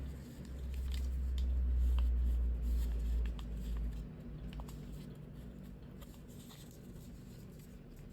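Paper being folded and creased by hand, with scattered light crinkles and ticks. Under it, a low rumble is the loudest sound and stops about four seconds in.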